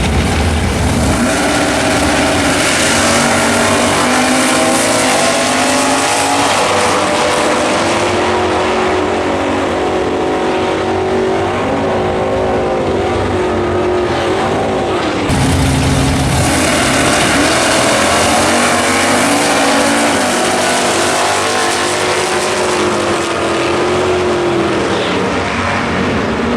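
Race car engines accelerating hard, the pitch climbing, dropping back and climbing again as the cars pull through their gears. The sound changes abruptly about 15 seconds in, and a new run starts.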